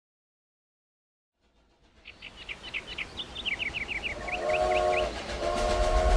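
Train sound effect fading in: a run of short high squeaks, then a train whistle sounding a held chord from about four seconds in.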